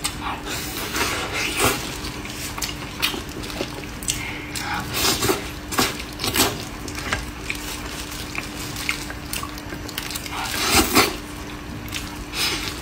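Close-up eating of braised pork knuckle: wet chewing and squishing of soft, sticky meat and skin in irregular bursts, over a faint steady hum.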